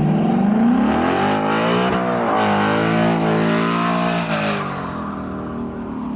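A car engine revving hard. The pitch climbs over the first second and holds high with a rush of noise for a few seconds, then falls back and eases off near the end.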